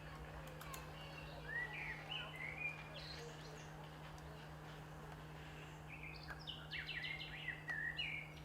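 Small birds chirping in short, quick bursts, a cluster about two seconds in and another from about six seconds, over a steady low electrical-sounding hum.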